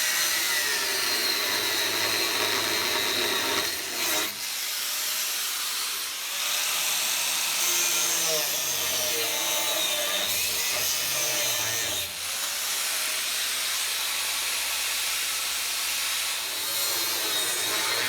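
Angle grinder cutting into the steel of a Land Rover chassis rail and bracket, running steadily with a wavering whine. It eases off briefly about 4 seconds in and again about 12 seconds in.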